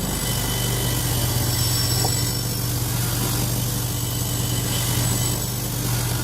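An electric motor-driven tool running steadily, with a strong low hum and a hiss above it.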